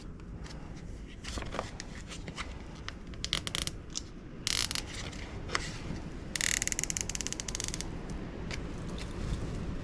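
Nylon zip tie being pulled tight by hand, its teeth ratcheting through the lock in three bursts of rapid clicking, the longest and loudest near the middle, with scattered handling ticks between.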